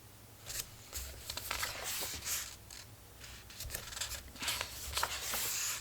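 Paper pages of a collage book being turned and handled, with a run of rustling, swishing paper sounds that stop abruptly at the end.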